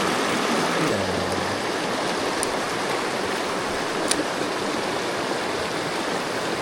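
Mountain stream rushing steadily over rocks, with two faint clicks about two and a half and four seconds in.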